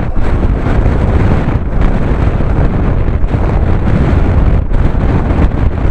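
Loud, steady buffeting of strong wind across the microphone of a camera on a moving bicycle.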